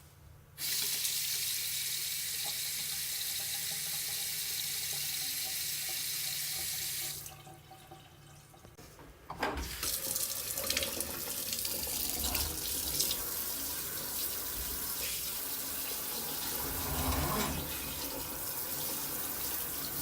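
Water running from a tap into a sink in a steady rush that starts about half a second in. It falls away around seven seconds, then runs again less evenly, with splashing.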